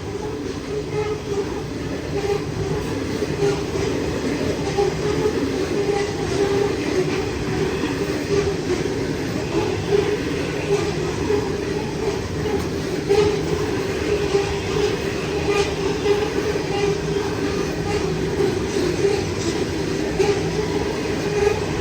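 Wagons of a coal train rolling past in a steady rumble and rattle, with scattered clicks from the wheels on the rails.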